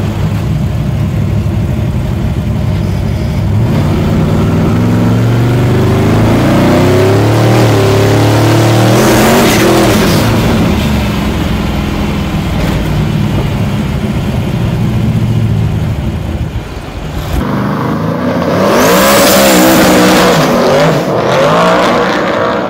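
Twin-turbo 515-cubic-inch big-block Chevy V8 in a 1963 Pontiac, heard from inside the cabin, pulling hard under acceleration with its pitch climbing through the revs. After a cut, the car is heard from the roadside, accelerating loudly past.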